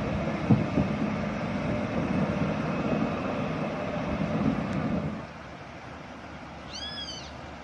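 Heavy truck engine running with a low rumble and a few knocks, cutting off suddenly about five seconds in to a quieter hiss. Near the end comes a short, high squeal that rises and falls.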